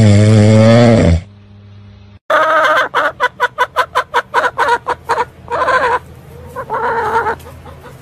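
Hen clucking in a fast run of about four clucks a second, then two longer calls. It is preceded by a loud, wavering pitched sound about a second long.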